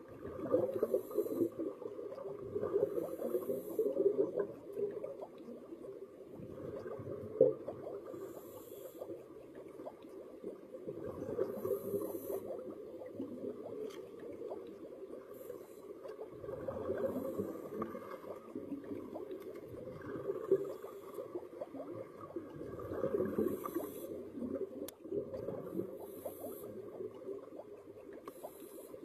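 A scuba diver breathing through a regulator, recorded underwater: short hissing breaths every few seconds over a steady crackle and rumble of exhaled bubbles.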